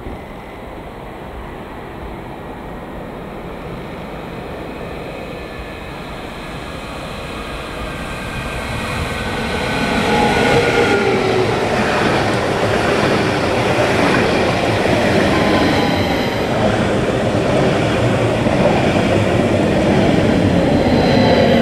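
A train approaching and passing, growing louder over about ten seconds and then staying loud as it runs by, with rail and wheel noise and thin whining tones that slide slowly in pitch.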